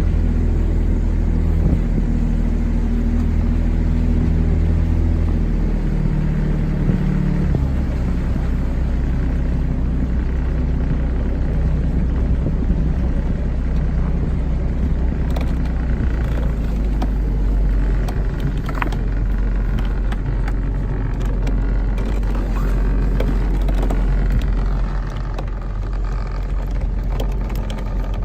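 Speedboat engine running with a steady low drone. About seven seconds in its pitch steps down as the throttle is eased and the boat slows.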